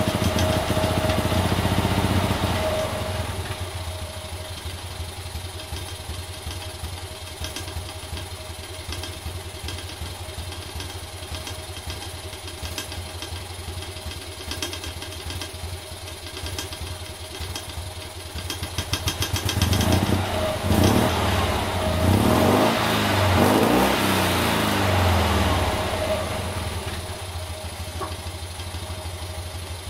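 Toyota Sports 800's air-cooled flat-twin engine idling. It drops from a higher speed back to idle about three seconds in, is revved up and down a few times from about two-thirds of the way through, then settles back to idle. The idle is now steady, which the owner puts down to either warming up or new spark plugs.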